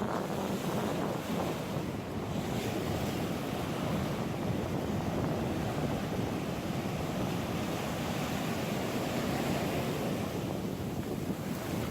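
Ocean surf washing onto the shore, with wind buffeting the microphone.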